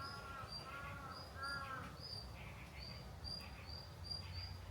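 Wild birds calling: a run of three short, arched calls in the first two seconds, which may be a crow cawing, and repeated short high chirps throughout, over a steady low background rumble.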